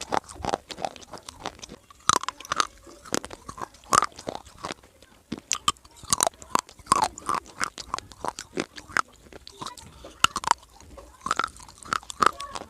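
A person biting and chewing dry eating clay (mitti), in irregular sharp crunches several times a second with short pauses between.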